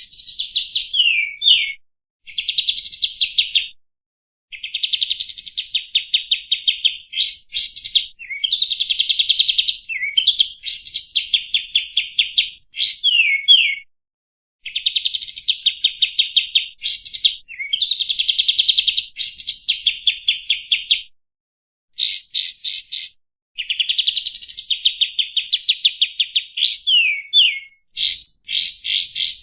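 Kapas tembak songbird singing a loud, busy song: phrases of rapid trills mixed with sharp downward-sliding whistled notes, broken by short pauses of about a second. It is a masteran recording, song played to tutor other caged songbirds.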